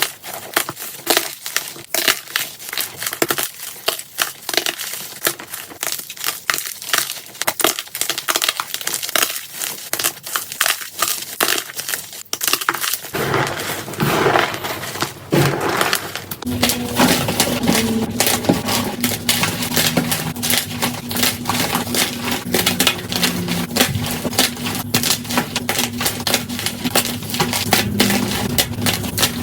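Blocks of gym chalk crushed by hand, sped up to double speed: a dense run of fast crunching and crumbling crackles. Partway through the crunching changes character and a low steady hum sits underneath it.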